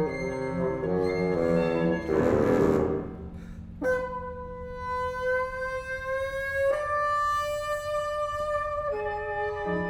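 Contemporary chamber music for solo bassoon and small ensemble: quick repeated note figures over a held low note, a brief breathy, noisy swell about two seconds in, then long held notes from about four seconds, with new notes entering near the end.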